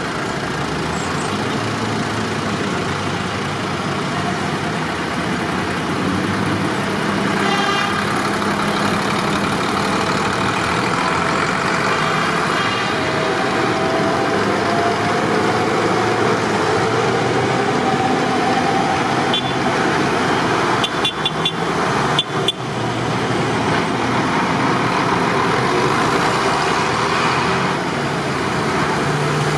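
Tractor engines running steadily under a constant rumble of vehicle noise, with a few sharp clicks about two-thirds of the way through.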